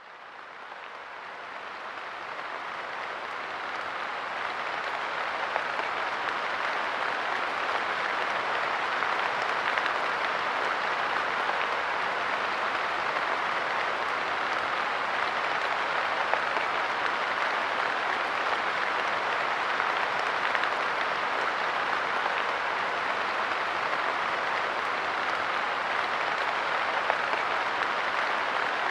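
Light rain falling steadily on a park bench, a dense patter of small drop hits, fading in over the first few seconds.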